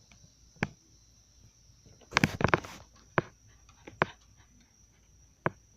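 Steady high-pitched chorus of crickets, with a few sharp clicks and a short burst of rustling clatter about two seconds in.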